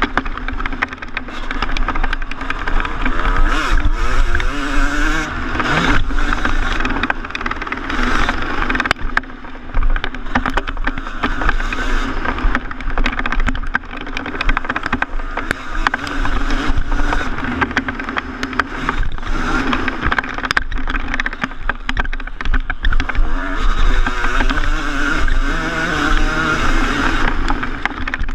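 A 2014 Yamaha YZ250's single-cylinder two-stroke engine being ridden hard on a motocross track, revving up and falling off again and again as the rider works the throttle and gears.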